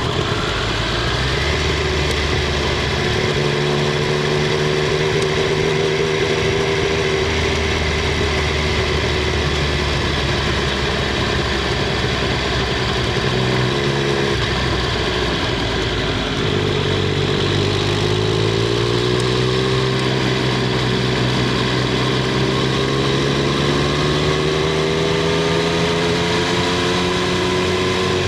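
Triumph Street Triple 765 R's 765 cc inline three-cylinder engine and exhaust running, heard from under the rear seat. The note holds fairly level, dips briefly about halfway through, then climbs slowly to the end.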